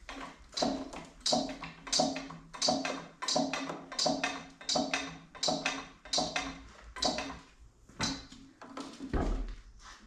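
Metal being struck again and again at a steady pace, about one and a half blows a second, each blow ringing briefly.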